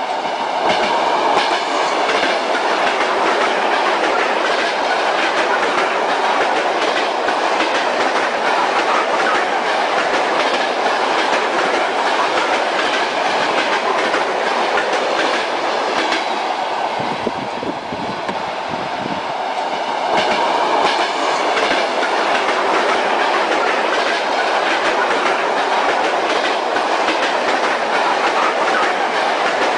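Train wheels clacking over rail joints under a steady running rumble, heard while riding in a passenger railway carriage. The noise eases slightly for a couple of seconds a little past halfway, then picks up again.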